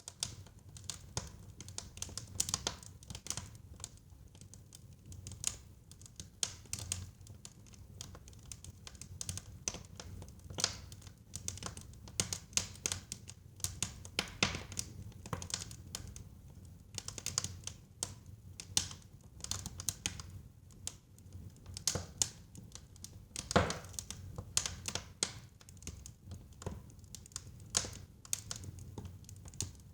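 Wood fire crackling in a fireplace: irregular pops and snaps over a low steady rumble of flame, with one louder pop about three-quarters of the way through.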